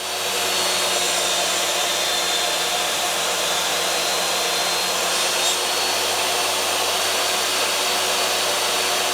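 Table saw switched on, its motor coming up to speed within the first half second and then running steadily.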